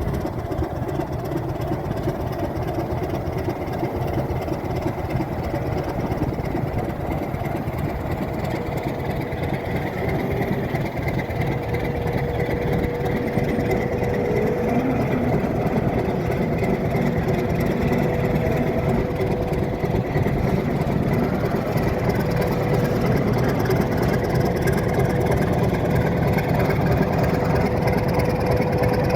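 Alco RS8 diesel locomotive's engine running steadily, growing slightly louder, with a steady hum-like tone joining about eleven seconds in.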